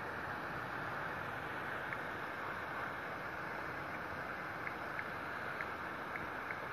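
Heavy rain falling steadily, an even dense hiss, with a few faint short ticks of drops now and then.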